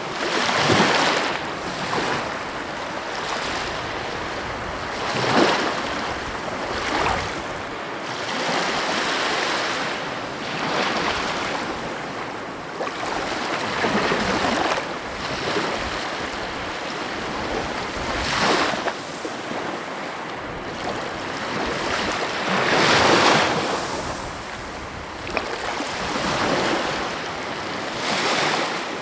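Sea waves breaking over a steady rush of surf, with a louder surge every four to five seconds.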